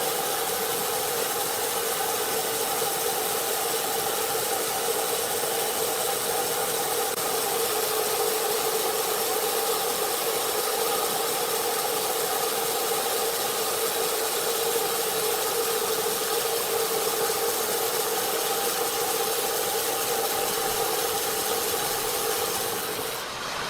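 Sawmill saw running steadily under load, a constant mechanical drone with a steady whine over a dense hiss, easing off just before the end.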